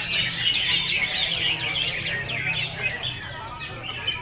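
Many caged green leafbirds (cucak hijau) singing at once, a dense tangle of overlapping chirps and quick falling whistled notes.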